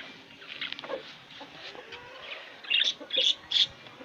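Small caged birds chirping, with three short, sharp high chirps close together in the last second or so.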